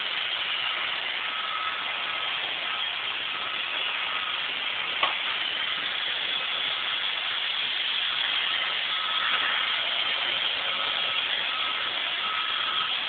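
iRobot Roomba 560 robot vacuum running: a steady whir of its vacuum motor and brushes with a faint on-and-off whine, and one sharp click about five seconds in.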